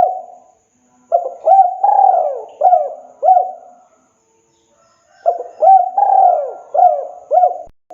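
Spotted dove cooing: two full song phrases of about five coos each, one after a second and one about halfway through, with the last coo of an earlier phrase right at the start.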